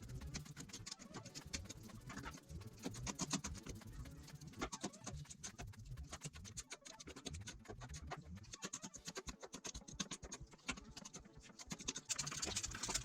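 Mud being scraped and picked off a perfume bottle: a dense, irregular run of scratches and small clicks.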